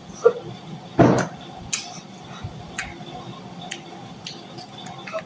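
Eating sounds: chewing moringa leaves and mango, with scattered wet mouth clicks and smacks and one louder, fuller smack about a second in.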